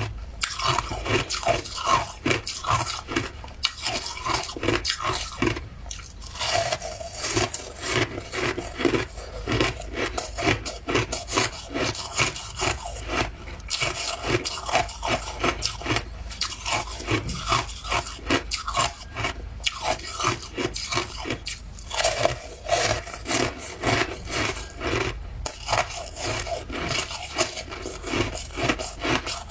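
Ice being bitten and chewed close to the microphone: a continuous run of crunches, several a second, with a short lull about six seconds in.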